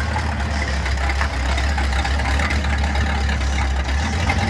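Classic American car's engine running with a steady deep rumble.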